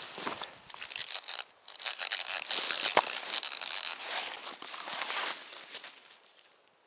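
Close, crinkly rustling and crackling with many small clicks. It is loudest in the middle and dies away near the end.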